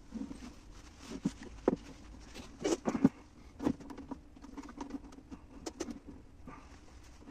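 Irregular light clicks and knocks, a few louder ones clustered a little before the middle, over a faint steady hum.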